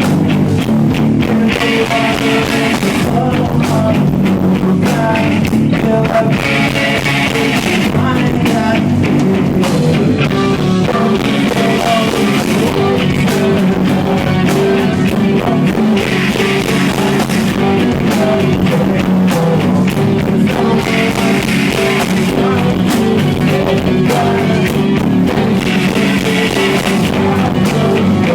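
Live rock band playing: electric guitars and drum kit, with singing at times.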